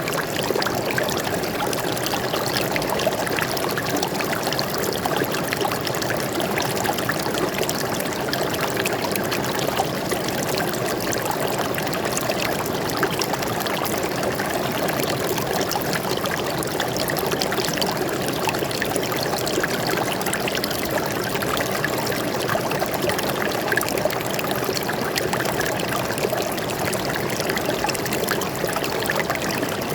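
Water flowing steadily over rocks in a forest stream, a continuous rushing with small splashes throughout.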